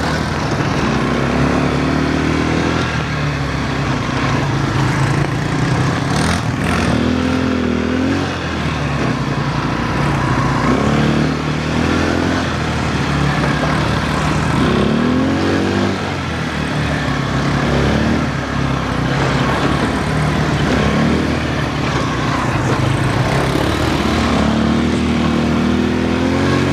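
Quad bike (ATV) engine running while riding, its pitch rising and falling again and again as the throttle opens and closes over a steady low drone. A single sharp knock comes about six seconds in.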